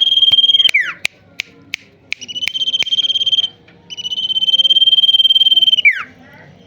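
Sirtu songbird singing hard: long, rapidly pulsed trilling notes held at one high pitch for one to two seconds each. Twice a note ends in a quick downward slur, and a few sharp short chips come between the first two notes.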